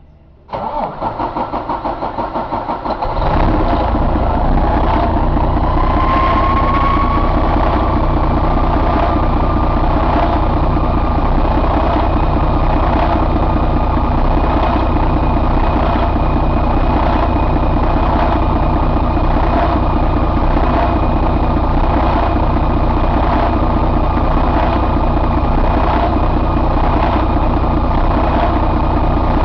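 2012 Detroit DD13 inline-six diesel engine cranked by the starter for about two and a half seconds, then catching and settling into a steady idle. A whine rises a few seconds after it catches and then holds steady.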